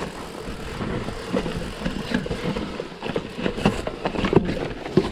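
Mountain bike rolling down a rough, rocky trail: irregular rattles and knocks from the frame, chain and suspension over a steady rolling noise.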